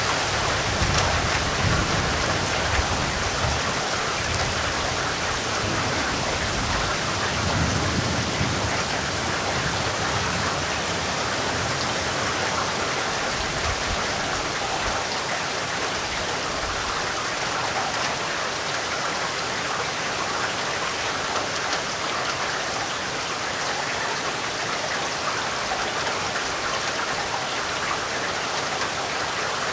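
Steady, heavy rain falling, a dense even hiss of drops. A low rumble of thunder lingers under it in the first several seconds and dies away.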